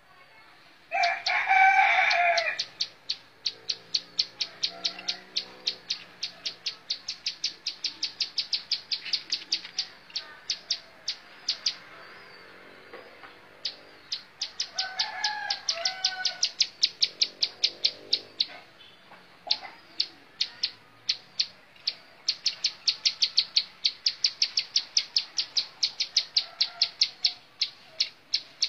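Ciblek sawah (a prinia) singing a rapid run of sharp, high ticking notes, about four to five a second, pausing briefly twice. A louder, lower call cuts in about a second in and again more faintly near the middle.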